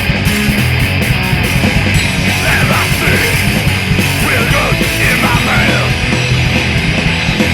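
Loud, fast punk rock recording with distorted electric guitar, bass and drums playing without a break.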